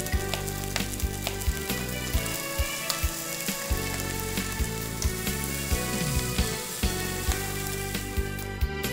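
Pork, cabbage and thick deep-fried tofu sizzling in a frying pan as a miso-mayonnaise sauce is poured in and the stir-fry is tossed to coat it. Background music with a steady beat plays underneath.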